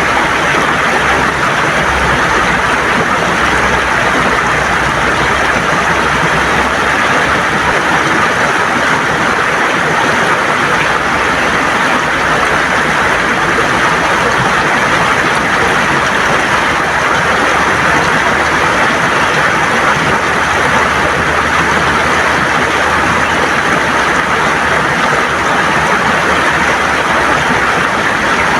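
River water gurgling and rushing over stones in a steady, loud, unbroken flow.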